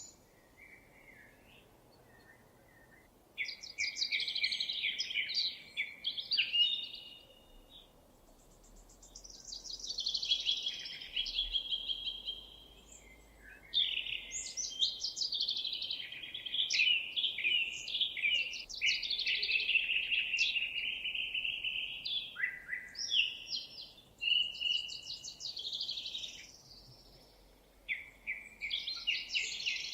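Songbirds singing: high chirping and trilling phrases a few seconds long, broken by short pauses.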